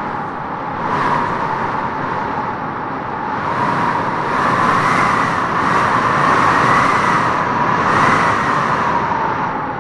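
Wind blowing hard, with a whistling tone that wavers up and down in pitch and gusts louder in the middle.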